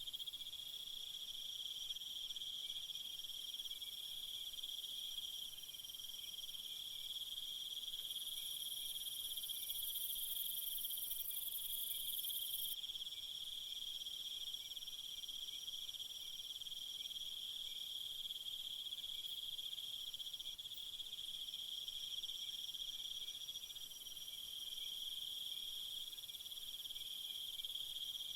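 A chorus of crickets and other insects trilling steadily at a few different high pitches. A higher, hissing insect layer swells for a few seconds about a third of the way in.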